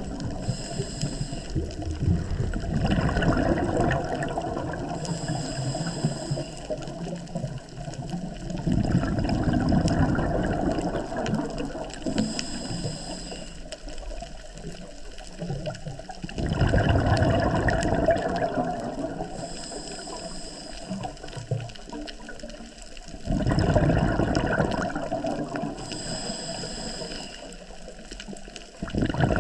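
A scuba diver breathing underwater through a regulator. A rush of exhaled bubbles bursts out roughly every seven seconds, and between them comes a thinner, higher hiss of the inhalation.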